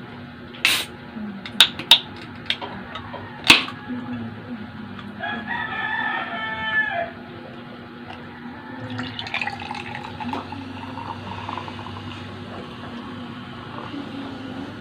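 A few sharp clicks and snaps in the first four seconds as something is opened at the table, the loudest about three and a half seconds in. Then a rooster crows once, for about two seconds.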